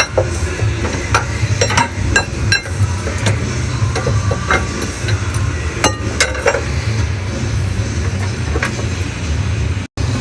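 A steady low engine rumble with irregular sharp metallic clinks and knocks over it, several in the first seven seconds. It cuts out briefly near the end.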